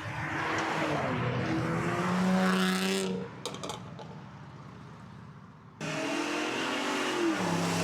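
A car engine revving hard, its pitch climbing for about three seconds before dropping away. After a quieter few seconds, loud engine revving starts again abruptly near the six-second mark.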